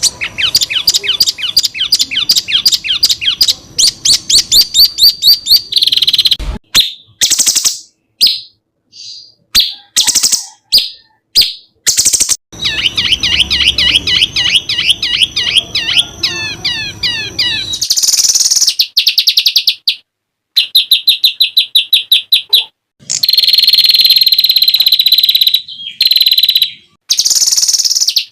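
Songbirds singing fast runs of sharp, rapidly repeated notes and trills, the 'tembakan' phrases prized in songbird contests. The recordings are spliced together with abrupt cuts and short silent gaps, ending in a steady high buzzing trill.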